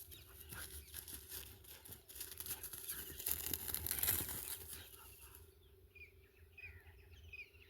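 A scratchy rustling noise that swells to its loudest about four seconds in, then stops. After that come short high bird chirps, with a faint steady hum underneath.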